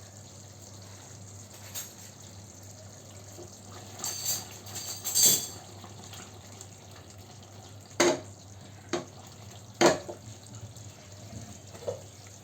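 Kitchen work at the sink: water with a handful of sharp knocks and clatters of utensils or dishes over a steady low hum. There is a cluster of knocks around four to five seconds in and two loud single knocks about eight and ten seconds in.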